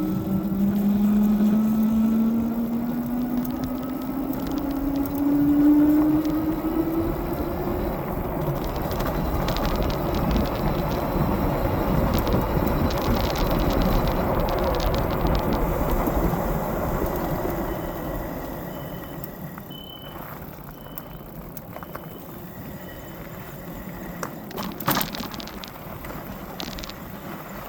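The hub motors of a Philodod Forester dual-motor fat-tire e-bike whine, rising in pitch over the first several seconds as it speeds up, over a steady rush of wind and tyre noise. The noise eases off after about two-thirds of the way through, as the bike slows. A faint repeating beep and one sharp knock come near the end.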